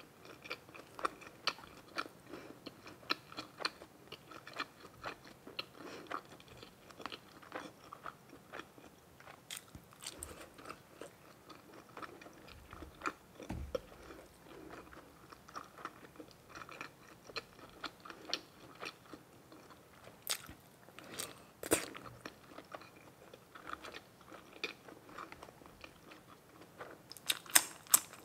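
A person chewing and biting food, with irregular wet mouth clicks and crunches a few times a second. Near the end comes a faster run of louder crunches.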